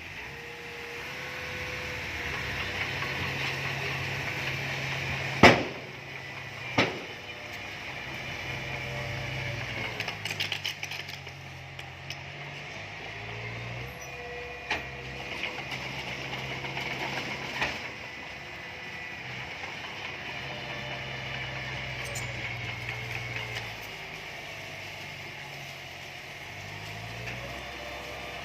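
An engine running steadily, its low hum stepping up and down in speed, with a steady whine above it that rises and falls a few times. Several sharp knocks come through, the loudest about five seconds in.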